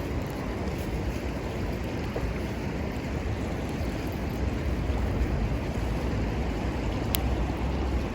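A river flowing steadily, with a low rumble of wind on the microphone and a single sharp crack near the end.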